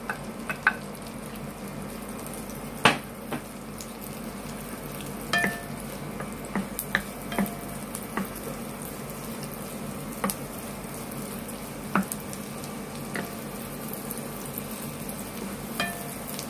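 Chopped garlic and ginger sizzling steadily in butter in a nonstick frying pan while being sautéed, with a spatula scraping and clicking against the pan as it stirs; scattered sharp knocks, the loudest about three seconds in.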